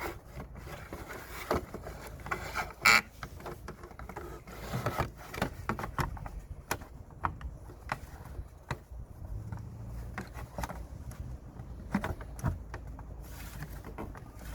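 Plastic engine cover being handled and pressed into place over a BMW 320d diesel engine: scattered light knocks and clicks, the loudest about three seconds in.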